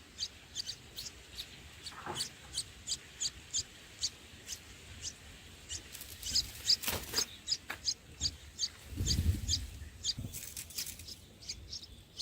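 A bird chirping steadily: short, high chirps repeated about two to three times a second. A few knocks and rustles break in, the loudest a low rumbling bump about nine seconds in.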